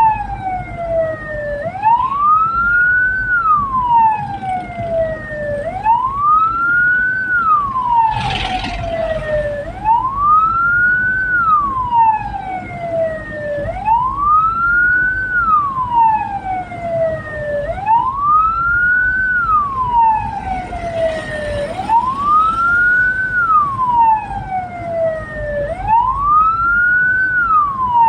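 Hearse's electronic wail siren cycling steadily, each cycle a quick rise in pitch and then a long fall, about once every four seconds, over a low engine and road rumble. A short rush of noise cuts across it twice.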